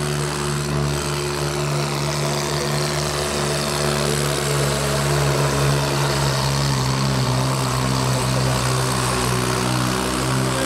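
Swaraj 855 tractor's diesel engine running at a steady speed, its pitch wavering only a little.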